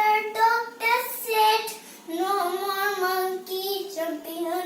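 A child singing a nursery rhyme, a single voice without accompaniment.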